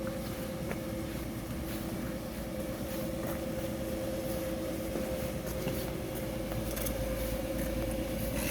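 A machine running steadily with a hum, over which faint knocks and clicks come now and then.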